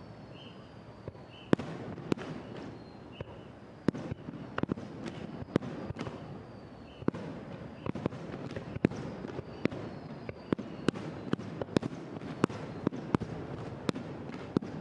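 Fireworks display: aerial shells bursting in a rapid, irregular series of sharp bangs, several close together at a time, over a steady background din.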